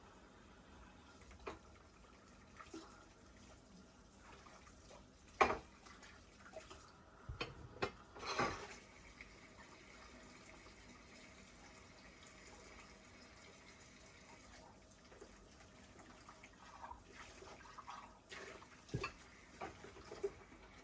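Quiet kitchen sounds at a sink: scattered small clicks and knocks, a sharper knock about five seconds in, and a brief splash of water about eight seconds in.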